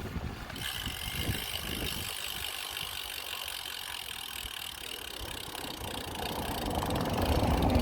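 Bicycle freewheel hub ticking rapidly as the bike coasts, a steady high buzz, with a low rumble growing louder toward the end.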